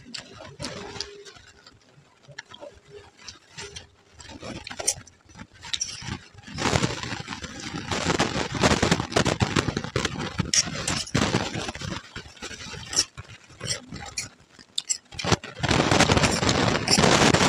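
Close-up chewing of crunchy puffed rice (muri) mixed with ghugni, a dense crackling that runs on for several seconds. Near the end a steel spoon scrapes and stirs the food in a steel plate.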